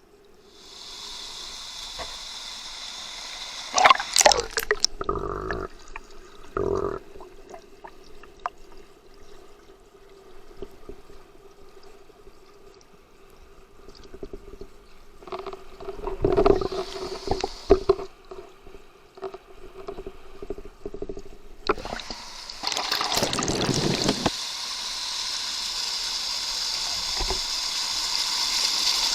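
Creek water gurgling and rushing, with a few knocks and bumps. It grows louder and steadier about three-quarters of the way through.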